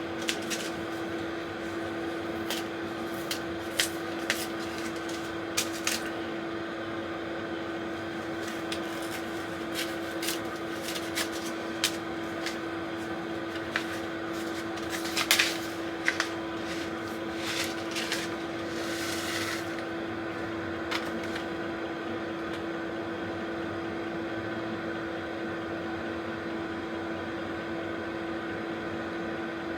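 Hands sowing cucumber seeds into plastic seed trays: scattered light clicks and taps, with a brief rustle a little past halfway. The handling stops about two-thirds through, leaving a steady hum with one constant tone.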